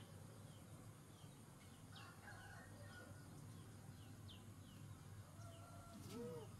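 Faint background of small birds chirping, short falling chirps two or three times a second, with a brief low arching call near the end.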